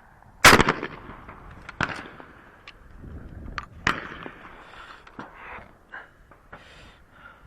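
A shotgun fires one loud, sharp shot about half a second in, followed by fainter sharp cracks about two and four seconds in.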